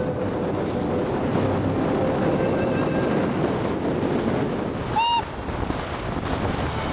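Steady rushing noise, with one brief high-pitched whistle toot about five seconds in.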